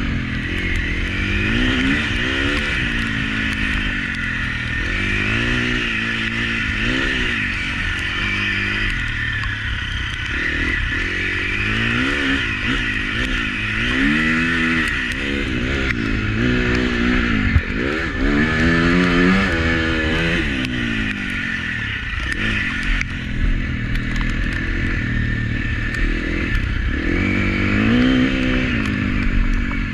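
Husqvarna FC350 motocross bike's 350 cc single-cylinder four-stroke engine, ridden around a track, revving up and dropping back again and again as the throttle is opened and closed through corners and gear changes. A steady hiss runs underneath, and a single sharp knock sounds a little past halfway.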